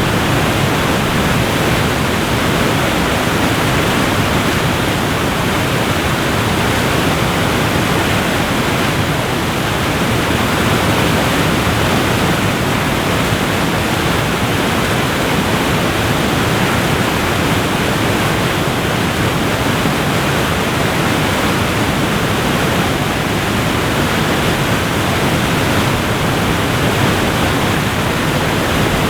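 Waterfall rushing: a loud, steady, even roar of falling water with no breaks.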